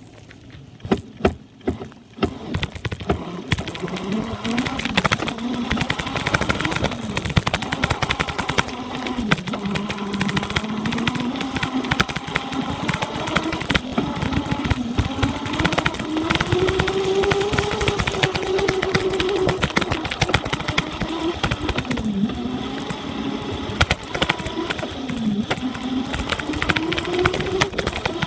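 Dirt bike engine running under way, its pitch rising and falling as the rider opens and eases the throttle, over a steady rushing noise. A few sharp pops about a second in.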